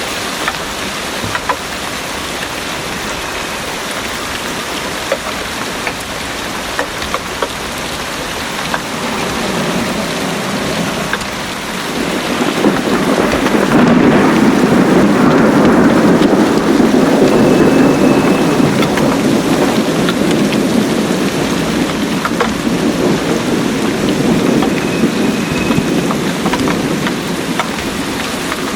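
Heavy rain pouring steadily, with scattered drips ticking close by. About twelve seconds in, a long rolling rumble of thunder swells up, is loudest a few seconds later, then slowly dies away.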